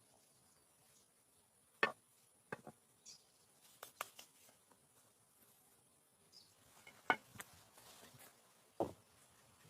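Scattered sharp clicks and knocks, about a dozen of them at irregular intervals, the loudest about two seconds in, seven seconds in and near the end, over a faint steady high hiss.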